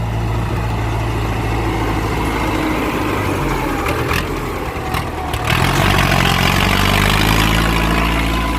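Ford 6610 tractor's four-cylinder diesel engine running steadily while working the field. A few short clunks come about four to five seconds in, then the engine note grows louder and fuller as it takes more load.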